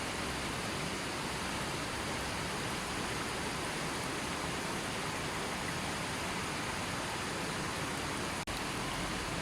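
River water flowing steadily, an even rushing sound. It cuts out for an instant near the end.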